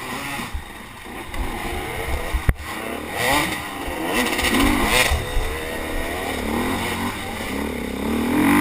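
Racing motorcycle engine revving up and down again and again as it accelerates and shifts, with a sharp knock about two and a half seconds in.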